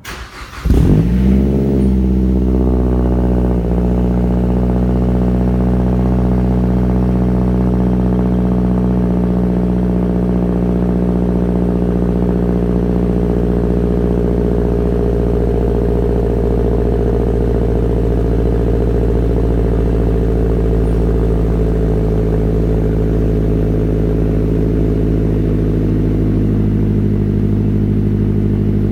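Mazdaspeed with a Magnaflow turbo-back exhaust and catted downpipe cold-starting: a brief crank, then the engine catches and flares about a second in. It settles over a few seconds into a steady fast cold idle, which drops slightly in pitch near the end.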